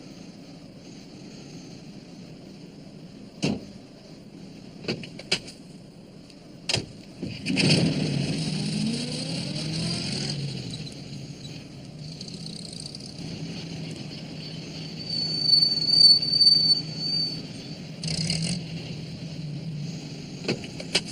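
A small van's engine, as a cartoon sound effect: a few sharp metallic clicks, then about seven seconds in the engine starts with a rising whine and keeps running steadily.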